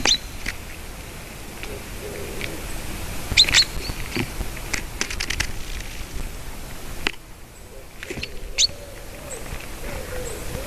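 Small birds giving short, sharp chirps, three times over a steady outdoor hiss, with a quick run of light ticks about five seconds in. A low wavering call joins near the end.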